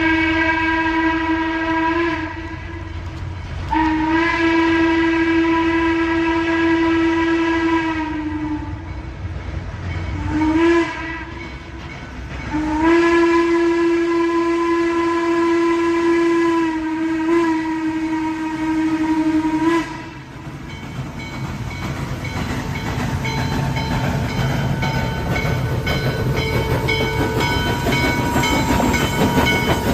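A train's horn sounding one steady tone in four blasts, long, long, short, long, the pattern a locomotive sounds on approaching a level crossing. After the last blast, about twenty seconds in, the train runs by with a rumbling, clattering noise.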